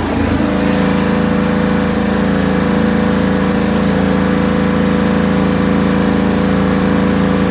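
Riding lawn tractor engine revving up to high throttle in the first half second, then running steadily; it is being run to charge its weak battery.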